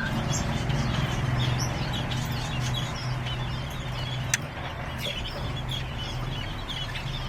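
Many small birds chirping and calling in quick, overlapping short notes over a steady low hum, with one sharp click about four seconds in.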